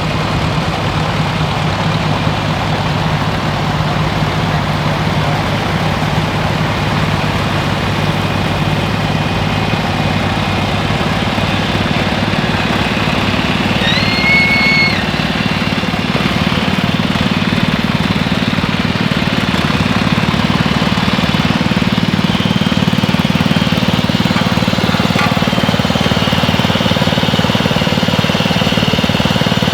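Engine running steadily, its pitch rising a little about halfway through, with a short high whistle or horn tone about 14 seconds in.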